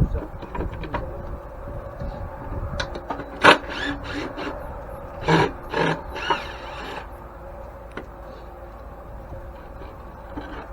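Hand-tool work on an antique cast-iron grain mill: scattered knocks and scraping, the sharpest knock about three and a half seconds in and two louder clatters a couple of seconds later, over a steady faint hum.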